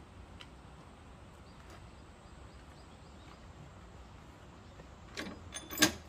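Quiet background with a few sharp knocks near the end, the loudest just before the end.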